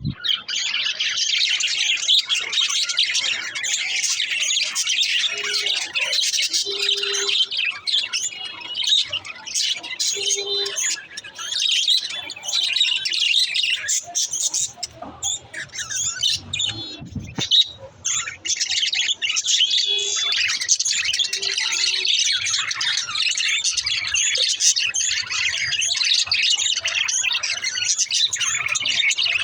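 Budgerigars chattering and warbling without pause, a dense, high-pitched twittering with occasional squawks, and a sharp click about 17 seconds in.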